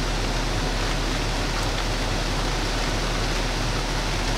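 Steady rain on the Jeep's roof and glass heard from inside the cabin, an even hiss with a low steady hum underneath.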